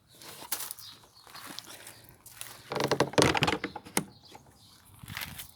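Greenhouse door being opened and shut: scattered clicks and knocks, with a rattling scrape of the door about three seconds in.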